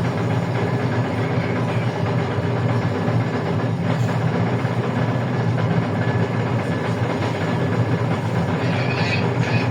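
Steady cabin noise of a LiAZ-677M bus on the move: its ZIL V8 petrol engine running at an even pitch under road noise.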